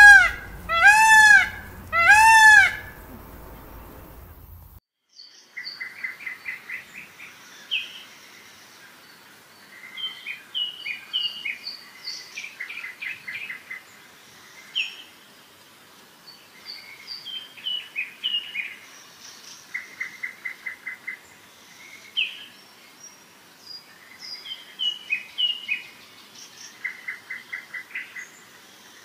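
Peacock calling three loud times about a second apart. After a short pause, small songbirds sing in repeated phrases of high chirps and quick trills.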